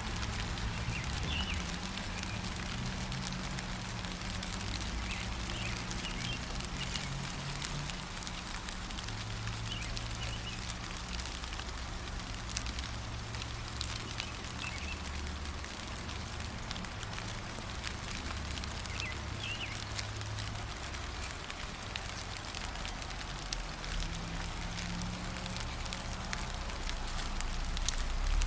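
Steady gentle rain with fine pattering drips, and brief bird chirps scattered here and there. A low rumble runs underneath.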